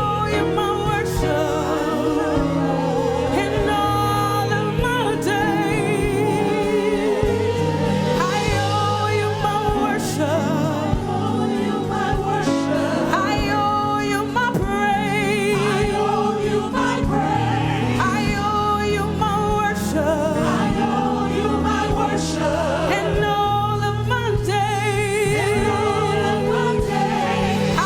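Gospel worship song sung by a choir over a band, with vibrato on the long held notes and a steady drum beat.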